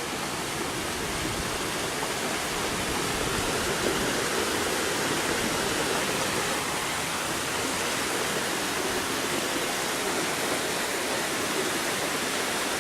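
Heavy downpour with floodwater rushing down the street, a steady even hiss of water.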